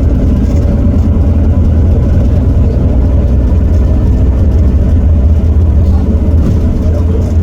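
Heuliez GX327 city bus's Iveco Cursor 8 six-cylinder diesel running steadily with a low drone, no clear rise or fall in revs.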